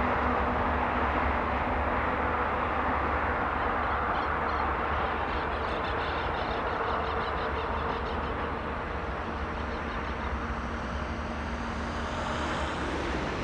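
Jet airliner engines giving a steady broad rush that slowly fades, with a high whine rising near the end.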